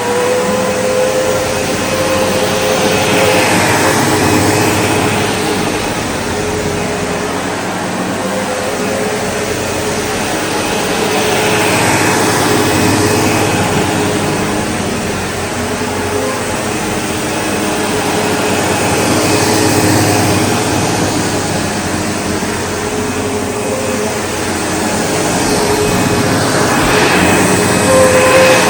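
SEBO Automatic X4 bagged upright vacuum cleaner running steadily, its motor noise carrying a few steady tones. The sound swells and eases about every eight seconds.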